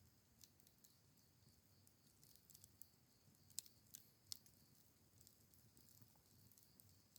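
Wood campfire crackling faintly: scattered sharp snaps and pops, two louder ones around the middle.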